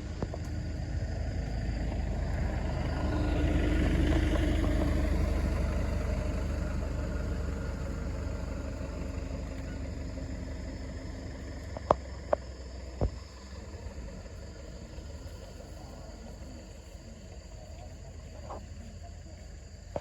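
A motor vehicle passing by: a low rumble that swells to its loudest about four seconds in and then slowly fades. A few sharp clicks come near the middle.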